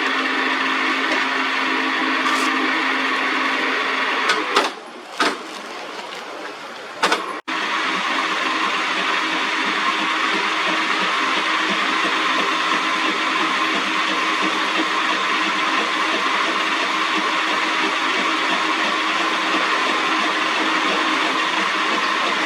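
Metal lathe running and cutting iron, a steady mechanical whir with a faint hum. It drops quieter for a few seconds a third of the way in, with a few clicks, then stops abruptly and resumes at full level.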